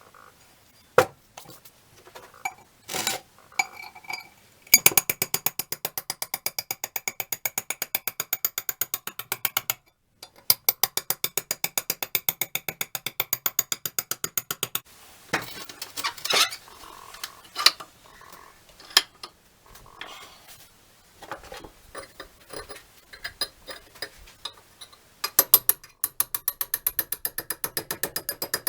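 Metal hand-tool work on an old, rusty monkey wrench: long runs of rapid, even metallic clicking, about eight a second, with scattered clanks and knocks of metal parts in between.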